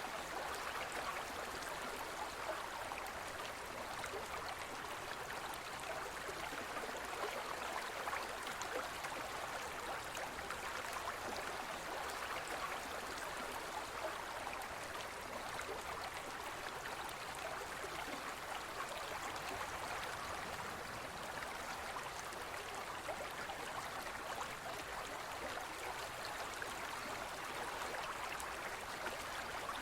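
Forest stream flowing steadily, water rushing and babbling over rocks.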